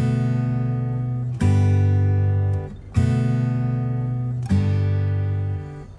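Background music: strummed guitar chords, a new chord struck about every second and a half and left to ring out and fade.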